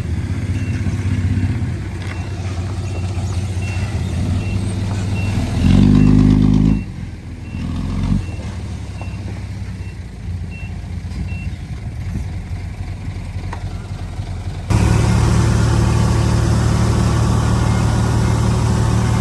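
Heavy diesel engines of earth-moving machinery running, with a reversing alarm beeping about twice a second for most of the first half. The engine revs up loudly about six seconds in, then drops back. About fifteen seconds in, a louder, steady engine takes over abruptly.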